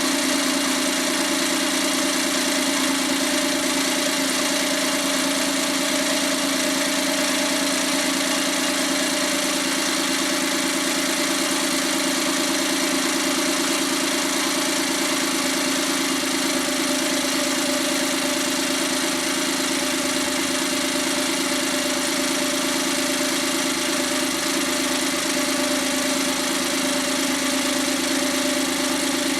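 Freshly overhauled Suzuki K6A turbocharged three-cylinder engine idling steadily on its post-overhaul test run.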